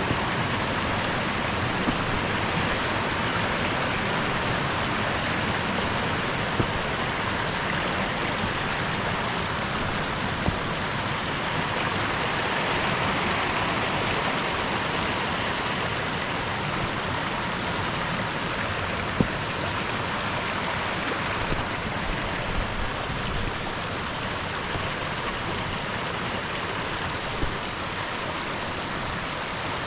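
Water of a hill burn rushing down over a waterfall and rocks, a steady rush that eases slightly in the later part, with a few brief faint taps.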